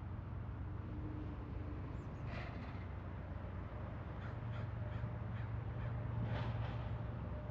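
A crow cawing repeatedly, with a cluster of calls about two seconds in, a quick run of short caws around four to five seconds, and a louder pair near the end, over a steady low rumble.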